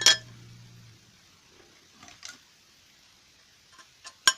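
Loose steel clutch parts being handled: a sharp metallic clink that rings briefly at the start, then a faint knock and a few light clicks, ending in a sharper click near the end.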